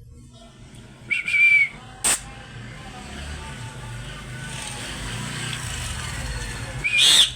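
Parrot whistling: a short, held whistle about a second in, a sharp click about two seconds in, and a louder, shrill whistle-call near the end, over a steady low background hum.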